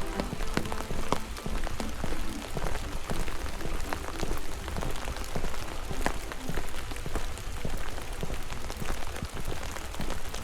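Rain falling, with many drops ticking irregularly on a nearby surface over a steady hiss and low rumble.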